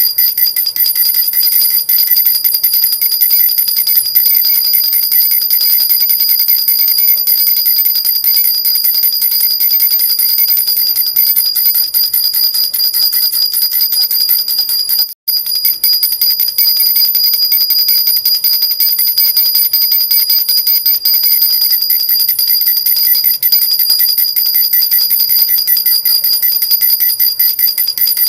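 Silver jhunjhuna baby rattle shaken continuously, its small bells jingling rapidly with a steady high ringing. The sound breaks off for a split second about fifteen seconds in.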